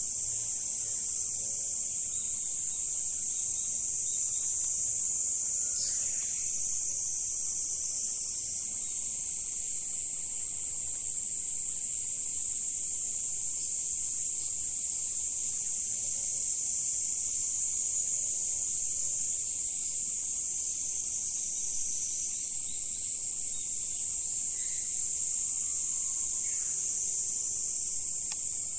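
A continuous high-pitched chorus of insects calling, steady throughout, with a few faint, brief bird calls, one about six seconds in and a couple more near the end.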